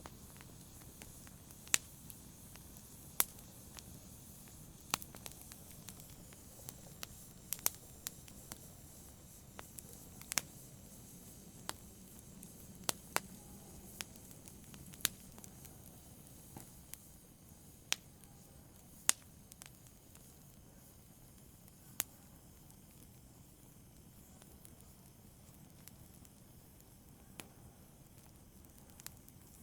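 Wood fire crackling in a fireplace: irregular sharp pops and snaps over a soft low hiss. The pops come thick at first and thin out over the last third.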